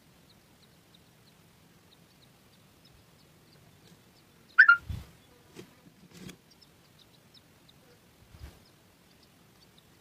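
A bird at a nest gives one short, loud sweeping call about halfway through, together with low thumps and rustling as it moves in the nest close to the microphone. A few weaker knocks follow, and faint high ticks repeat about twice a second underneath.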